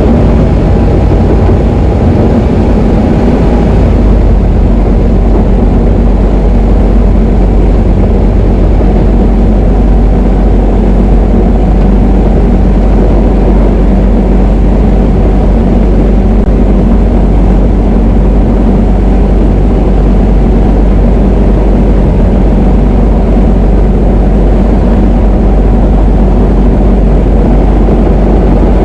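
Diamond DA20 light aircraft's piston engine and propeller running steadily, a loud, even drone.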